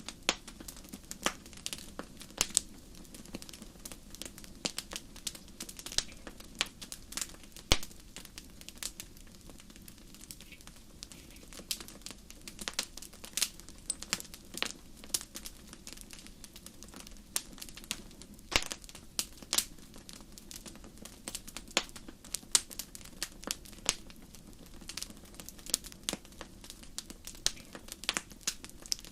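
Fire crackling in a fireplace: irregular sharp pops and snaps, a few each second, over a low steady rumble.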